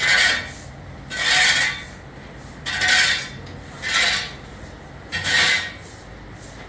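Repeated rasping, scraping strokes: five of them, each about half a second long and roughly a second and a half apart.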